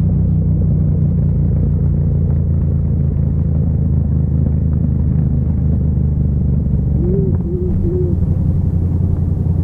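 Yamaha MT-07's parallel-twin engine running steadily under way, a constant low drone. About seven seconds in the drone breaks up and dips briefly as the throttle eases, with short rising-and-falling pitch sweeps.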